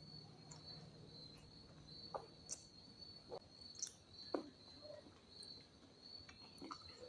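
Faint, scattered mouth and eating noises from a mukbang meal of pork ribs curry: soft clicks and smacks of chewing between bites, the sharpest about four seconds in. Under them runs a steady high-pitched trill.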